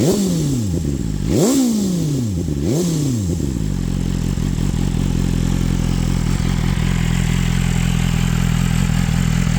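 BMW M1000R's inline-four through an aftermarket Leovince exhaust, blipped twice with quick throttle stabs. Each rev shoots up and falls back, about a second and a half in and again near three seconds. It then settles into a steady idle.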